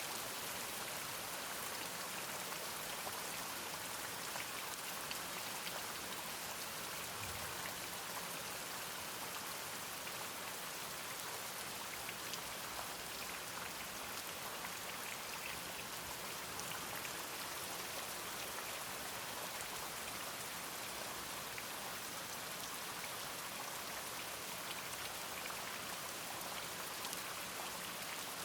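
Steady rain, with the patter of many individual drops striking a surface.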